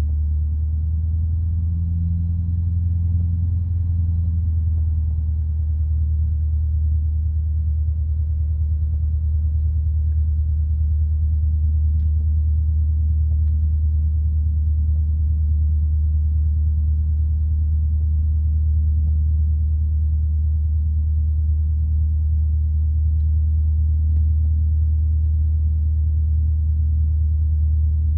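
Single-engine piston light aircraft in cruise flight, heard from the cockpit: a steady low engine drone that holds an even level.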